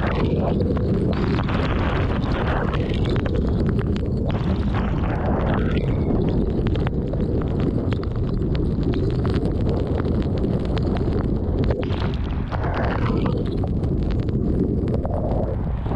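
Thunderstorm wind blowing hard across the microphone in a steady low rush that swells every few seconds, with a rapid patter of sharp ticks from storm precipitation striking nearby surfaces.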